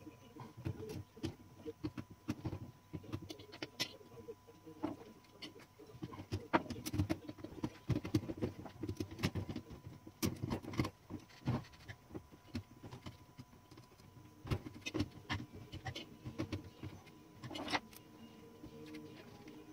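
Small metal parts and hand tools being handled during typewriter reassembly: irregular light clicks, taps and knocks, with a faint steady whine underneath.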